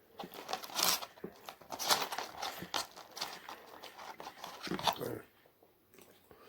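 Close-up crinkling and crunching from handling and eating fast food, a dense run of crackles that stops about five seconds in.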